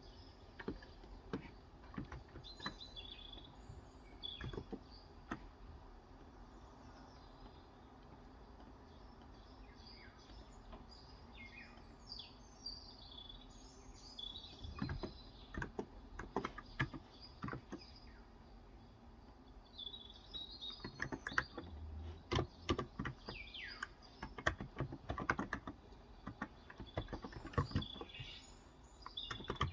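Typing on a Cox Endeavor 35 g electro-capacitive (non-contact) tenkeyless keyboard. The keystrokes come in scattered clicks, pause for a few seconds, then come in denser bursts in the second half. Birds chirp throughout.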